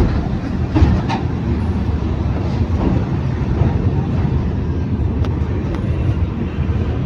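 Moving train's steady rumble of wheels on rails, with a few sharp clacks about a second in and again around five seconds in.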